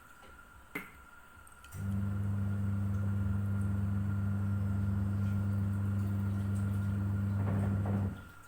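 An electric appliance hums steadily, a low even mains-type buzz that starts about two seconds in and stops near the end, with a single click shortly before it starts.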